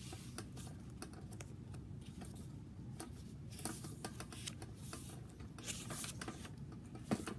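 Paper pages and card embellishments of a handmade junk journal being handled and turned: soft rustling with light taps, and a sharp click near the end, over a low steady room hum.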